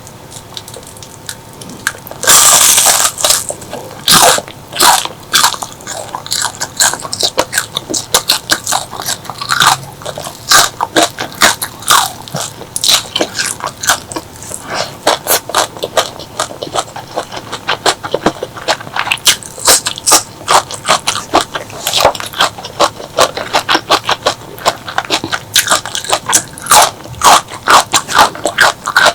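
Close-miked biting and chewing of crunchy food: a loud crunching bite about two seconds in, then a steady run of sharp crunches and clicks as it is chewed.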